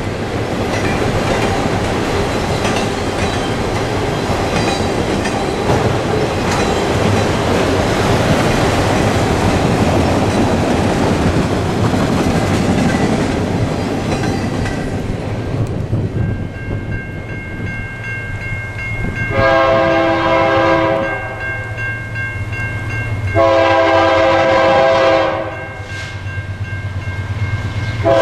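A freight train of autorack cars rolls past with wheels clicking over the rail joints, and the sound dies away about halfway through. An approaching BNSF diesel locomotive then sounds its air horn over a low engine rumble. It gives two long blasts and a short one near the end, the opening of the long-long-short-long grade-crossing signal.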